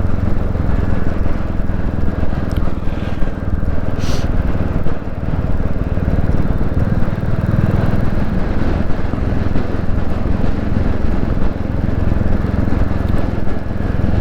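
Royal Enfield Classic 350's single-cylinder engine running steadily while the motorcycle is ridden, a dense low engine note with no gear changes marked.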